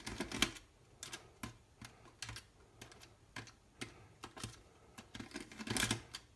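Small irregular clicks and taps of a screwdriver and laptop parts being handled while removing screws from a laptop's metal chassis, with a louder scrape near the end.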